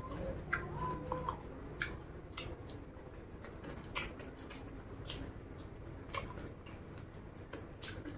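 A person chewing a mouthful of raw leaves and rice, close to the microphone: irregular crisp clicks and wet mouth smacks every half second or so.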